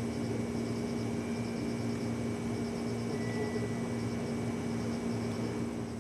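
211 series electric train standing at the platform, its onboard equipment and cooling fans humming steadily over a low throb. The hum drops a little in level near the end.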